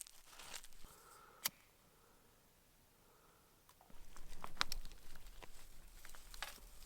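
Faint scattered clicks and light rustling of kindling and paper being handled to lay a campfire, with a brief silent gap partway through.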